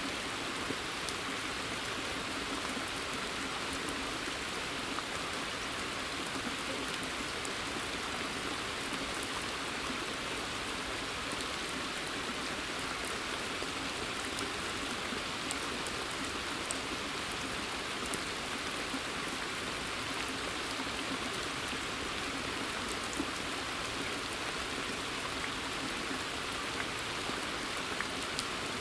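Steady rain falling on a pond and the woodland foliage around it: an even hiss with scattered single drops ticking through it.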